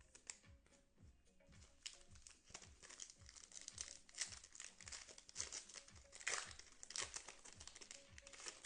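Plastic trading-card pack wrapper being crinkled and torn open by hand: a run of quick, irregular crackles, loudest in the second half.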